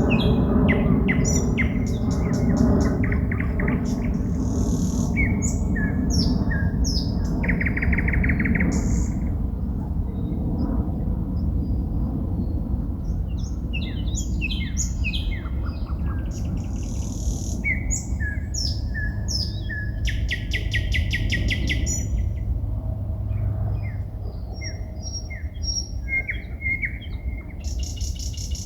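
Songbirds singing at night: quick, varied phrases of whistles and chirps with fast repeated trills, over a steady low background rumble.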